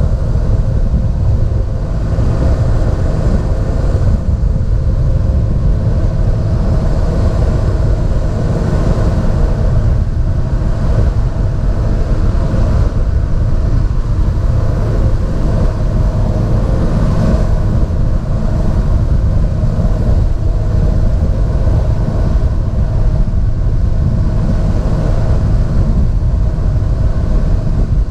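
John Deere 7430 Premium tractor's six-cylinder diesel engine running steadily under load, a deep, even drone that holds constant throughout.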